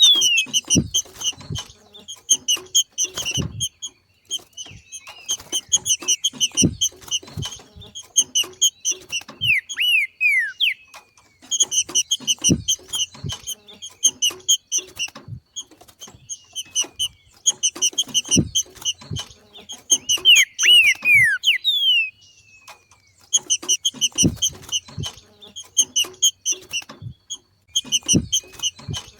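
Green-winged saltator (trinca-ferro) giving its 'macheado' call: bursts of rapid chattering notes, a few seconds each, with brief pauses and some falling whistled glides between them. Low knocks are mixed in among the bursts.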